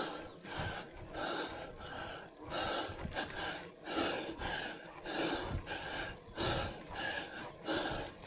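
A cyclist breathing hard and fast while climbing a steep gradient, about two loud breaths a second in a steady rhythm.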